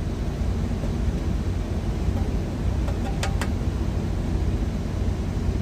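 Steady low engine rumble of an idling truck, with two light clinks a little past the middle.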